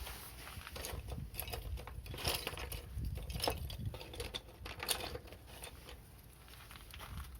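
Wood fire crackling, with irregular pops and snaps over a low rumble.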